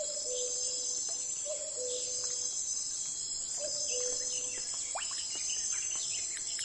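Nature ambience: insects trilling in a steady high-pitched drone, with scattered bird chirps. A few short, low, steady calls repeat every second and a half or so in the first part.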